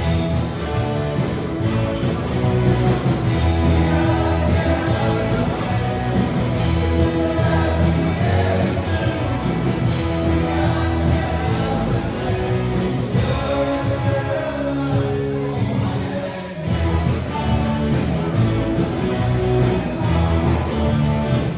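Live rock band playing with drums and a steady beat, with a singing voice in places.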